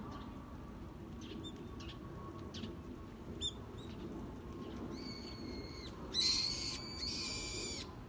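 Small birds calling in a blossoming tree: a few short, high chirps, then from about five seconds in three longer, harsh, buzzy calls, the last two the loudest, over a low steady background rumble.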